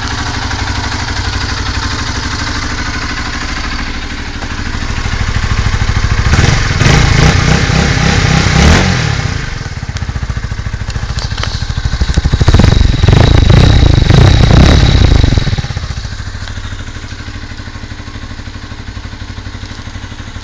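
Honda CBR125R's single-cylinder four-stroke engine through its stock exhaust, idling and then revved up twice, each rev held for a few seconds before it drops back to a steady idle.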